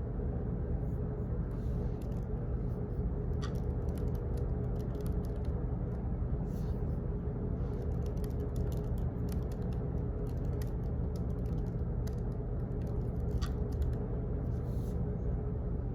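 Office background noise: a steady low hum with many light clicks and ticks at irregular intervals.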